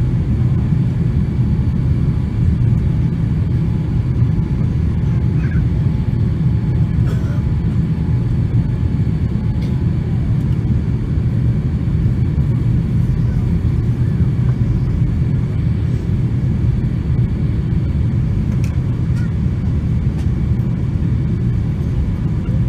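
Steady low rumble of an airplane's engines, with faint steady high tones above it.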